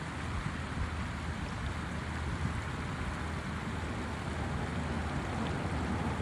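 Steady rushing wind and surf noise, with wind buffeting the microphone in a low uneven rumble.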